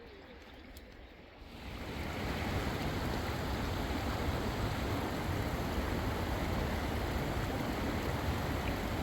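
Fast-flowing river rushing, a steady roar of water that swells up suddenly about a second and a half in.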